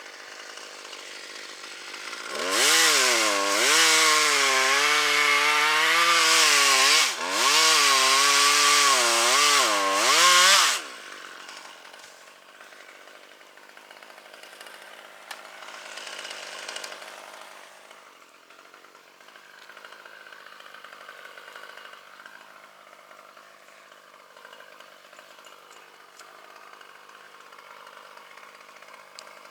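Two-stroke chainsaw revving and cutting, its pitch wavering under load for about eight seconds, with one brief drop in the middle before it stops. Only faint background follows.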